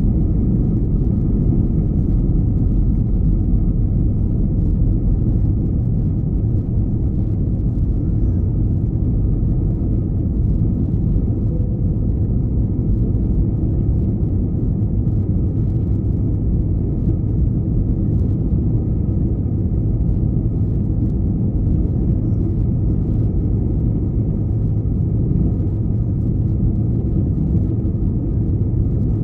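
Steady low rumble inside the cabin of an Airbus A321-211 with CFM56-5B engines: jet engine and airflow noise, with a faint steady hum on top and no change in pitch or level.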